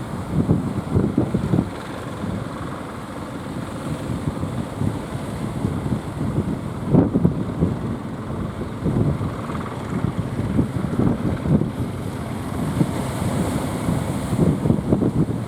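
Strong wind buffeting the microphone in irregular low rumbling gusts, with the wash of surf behind it.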